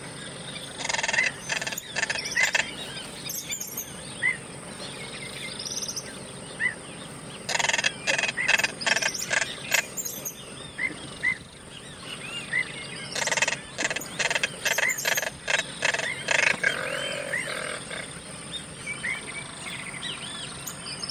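Natural ambience of small birds chirping with many short, scattered calls over a steady high-pitched whine. Three spells of rapid rattling strokes come through about a second in, near the middle, and again a few seconds later.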